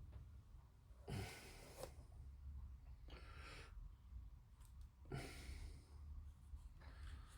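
Faint breathing close to the microphone: three or four soft breaths about two seconds apart, over a low steady hum of room tone.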